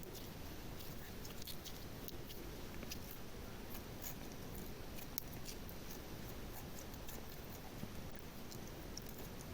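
Slime being handled close up: soft, sticky squishing with many small irregular clicks and crackles.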